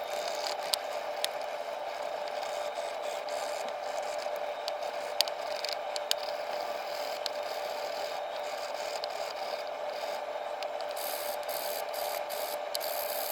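Wire brush scrubbing surface rust off steel transmission gears, a steady scratching with a few sharp clicks of metal on metal, turning into quicker back-and-forth strokes near the end. A steady hum runs underneath.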